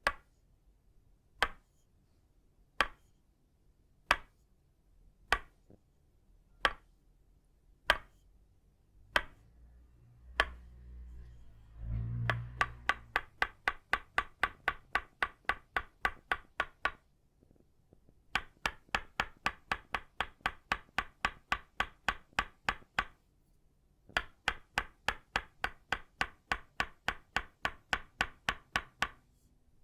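Itaúba wood Tok Sen mallet striking a wooden stake. It starts with single ringing knocks about a second and a half apart. After a short low rumble of handling, it changes to fast, even tapping at about four to five knocks a second, in three runs separated by brief pauses.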